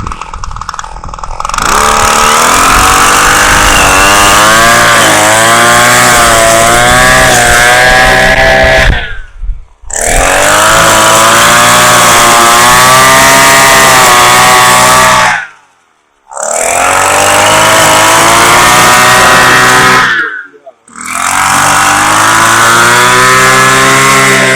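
Southland wheeled string trimmer's small engine running loud and close, its pitch wavering up and down as the load on the cutting line changes. The sound drops out abruptly three times for about a second each.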